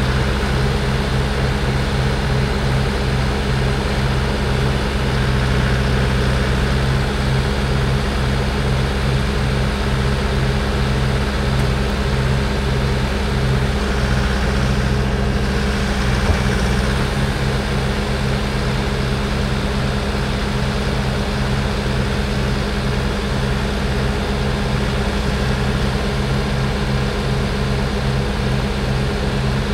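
HX620 triaxle truck's Cummins X15 diesel engine running steadily, its low note shifting about halfway through.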